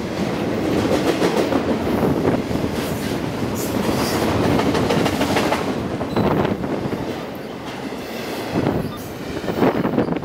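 Double-stack intermodal freight train's well cars passing at speed: a steady rumble of steel wheels on rail with clickety-clack wheel clatter over the rail joints.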